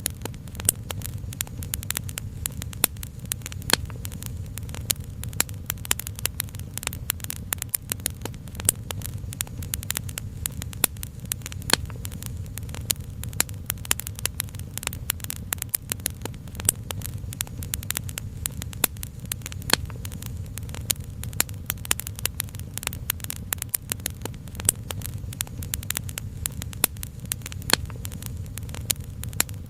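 Wood fire crackling, with many sharp pops and snaps at uneven intervals over a steady low rumble.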